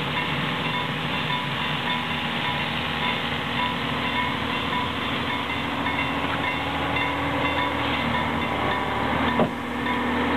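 Train running along the track: a steady rumble with a few held tones, and a sharp clack about nine seconds in.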